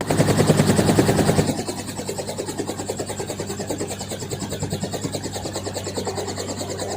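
Helicopter running, with a steady hum and an even rotor beat of about four to five pulses a second; it is louder and noisier for the first second and a half, then settles.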